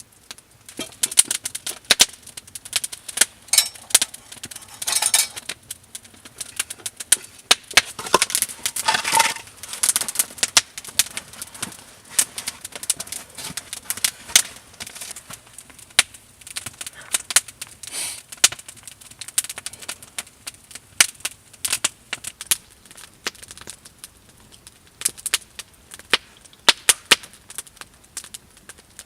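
Campfire crackling, with many irregular sharp pops and snaps from the burning wood.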